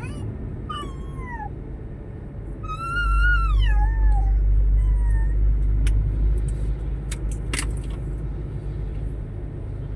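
A cat meowing: four drawn-out calls in the first five seconds, each falling in pitch. Underneath is a low vehicle engine rumble that grows louder about three seconds in, and a few sharp clicks come near the end.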